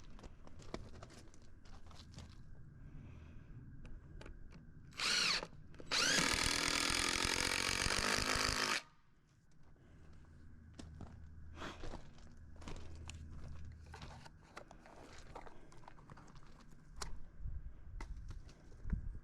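Handheld power drill run in a brief burst, then run again for nearly three seconds, its motor speeding up as the trigger is pulled, with scattered knocks and handling clicks of tool work before and after.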